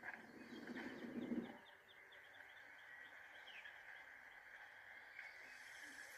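Faint birdsong outdoors: a run of short, quick chirps over a steady background hiss. In the first second and a half there is a louder low rustling noise.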